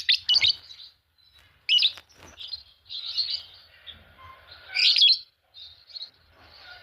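A pair of Fischer's lovebirds chirping in quick, high-pitched bursts separated by short pauses, loudest at the start and again about five seconds in.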